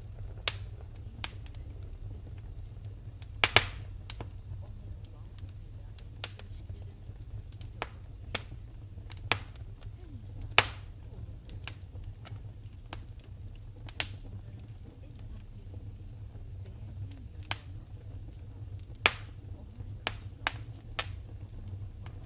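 Wood fire in a fireplace crackling: irregular sharp pops and snaps at uneven intervals over a low, steady rumble of the flames.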